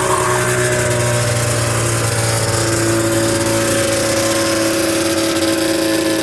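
Two-stroke engine of a 1980 Ski-Doo Blizzard 9500 snowmobile running at a steady, fairly high speed after easing off just before.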